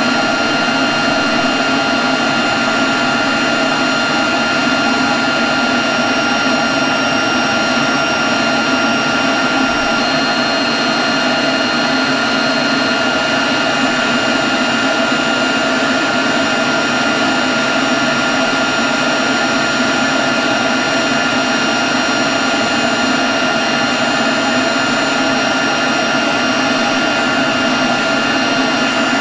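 Leaf blower running at a steady speed: a constant rush of air with a steady high whine over it.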